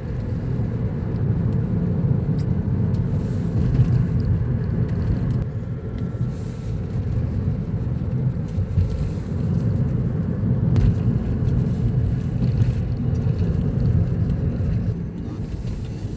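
Car driving, a steady low rumble of engine and road noise that eases slightly near the end.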